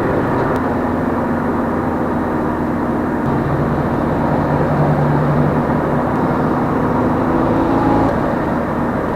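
Car cruising on a highway: steady engine and road noise, the engine note shifting in pitch a few times.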